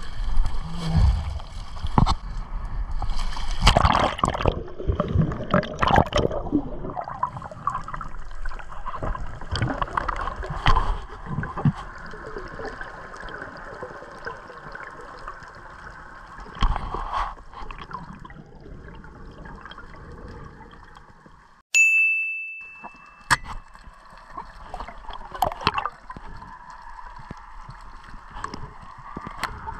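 Water splashing and sloshing as a freediver goes under from the surface, then the muffled rush of water heard underwater through the camera housing. About two-thirds of the way through, the sound briefly cuts out and a single sharp ding rings out and fades.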